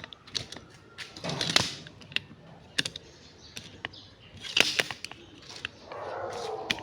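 Irregular light clicks and taps of small hard objects being handled, with a couple of short rustling bursts.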